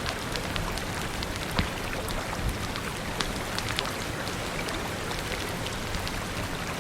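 Steady rain falling, with scattered sharp ticks and pops throughout; one louder pop comes about a second and a half in.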